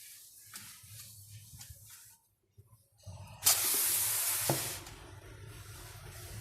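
Faint clinks and handling noises, then about halfway in a loud, steady hissing spray lasting just over a second, dropping to a quieter steady rush.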